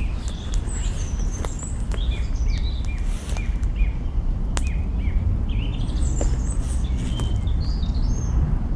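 Campfire crackling with scattered sharp pops over a steady low rumble, while small birds chirp again and again in short falling notes.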